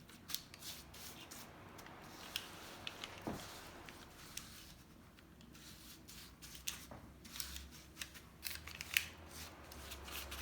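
Quiet, irregular clicks and scrapes of a utensil working a thick suet-and-seed mixture across parchment paper on a cookie sheet, spreading it flat.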